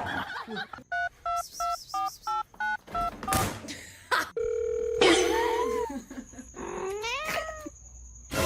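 A run of about eight quick two-tone beeps like a telephone keypad being dialled, then a single steady tone held for about a second and a half, followed by a few short sounds that slide up and down in pitch.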